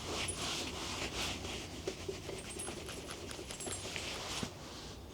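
A dog panting, a quick even run of breaths that eases off near the end.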